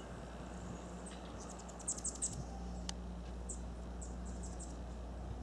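Small bird chirping: quick, very high-pitched chip notes in a few short runs, over a steady low hum.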